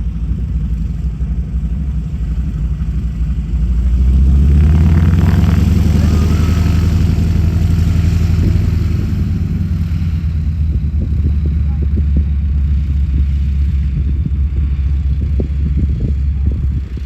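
A piston engine running steadily, swelling louder about four seconds in and easing off after the middle, with some short clicks near the end.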